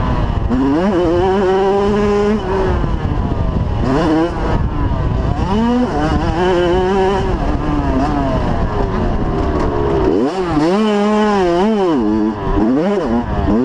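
85cc two-stroke motocross bike engine revving hard, its pitch climbing and dropping again and again as the rider opens and closes the throttle and shifts through the gears on the track.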